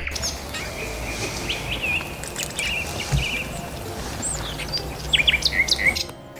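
Small birds chirping and twittering over a steady rushing background noise. The chirps grow denser and louder about five seconds in, and the background noise drops away near the end.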